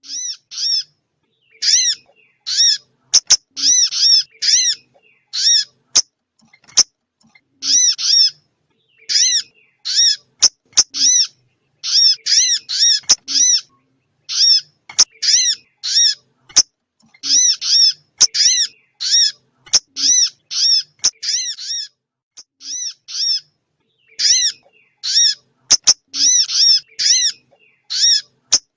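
Recorded calls of small songbirds played as a trapping lure: short, sharp chirps repeated in quick runs of two to five notes with brief pauses between runs, and a few sharp clicks.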